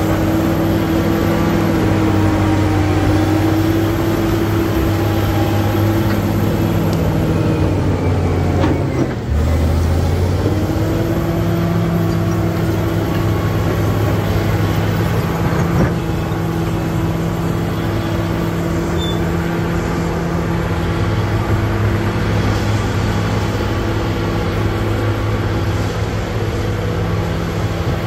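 Caterpillar D7G bulldozer's six-cylinder diesel engine running steadily at working revs; about a third of the way in its pitch sags briefly and then comes back up.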